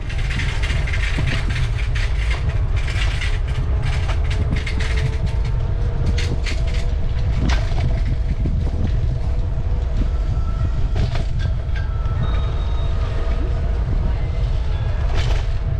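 Steady rumble of wind on a bicycle-mounted camera microphone while riding, with a faint steady hum and scattered clicks over it.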